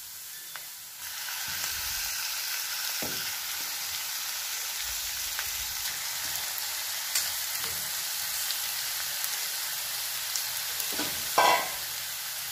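Marinated prawns frying in hot oil with onions in a nonstick pan. The sizzle jumps up suddenly about a second in, as the prawns go into the oil, then runs as a steady hiss. A brief louder scrape comes near the end, as the spatula goes in.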